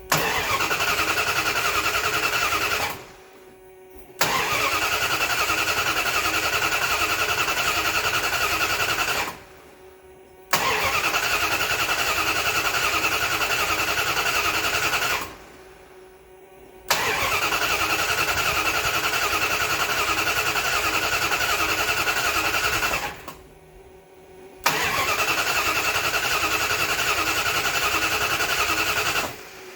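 Chrysler 400 cubic-inch V8 being cranked over by its starter motor without firing, the coil lead disconnected, in five long bursts of several seconds each with short pauses between. The cranking turns the oil pump to fill the new oil filter and bring up oil pressure before the engine is started.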